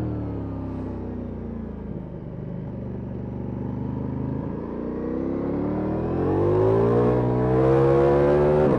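Ducati Multistrada V4S's V4 engine through an Akrapovic exhaust, heard from the rider's position: revs falling off as the throttle closes, running low for a few seconds, then rising steadily under acceleration and louder, with a quick gear change near the end.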